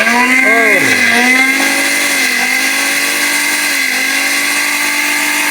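Orpat 1600 W heavy-duty blender motor switched on and running at high speed with nothing in the jar: a loud, steady whine, like a motorbike running, that climbs in pitch over the first second and then holds.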